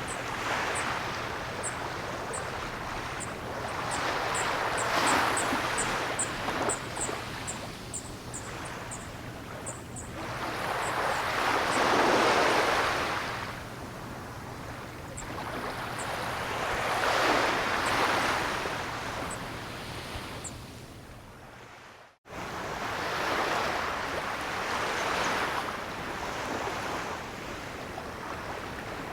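Ocean waves washing onto a shore, the surf swelling and ebbing in slow surges every five to seven seconds. About 22 seconds in the sound fades out to silence for a moment and then resumes, an edit or loop point in the recording.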